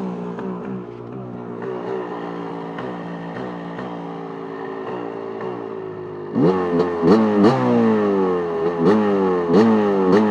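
KTM 250 SX two-stroke engine idling hot with a weird, light repeated clacking, then revved in a quick run of short throttle blips from about six seconds in. The noise comes only when the engine is hot, and the owner suspects the power valve.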